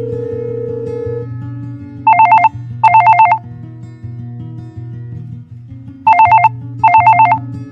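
A telephone ringing in a double-ring pattern: two short trilling rings about two seconds in, then two more about six seconds in, over background music with a plodding bass line.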